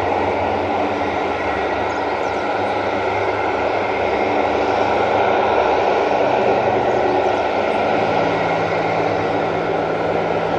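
A large transport aircraft's engines running steadily, with a dense, even engine noise and a few steady tones through it.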